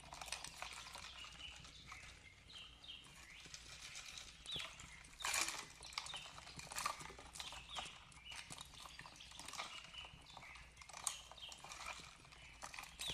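Wood fire crackling, with irregular snaps and pops and one louder snap about five seconds in, mixed with small birds chirping in short, high, repeated calls.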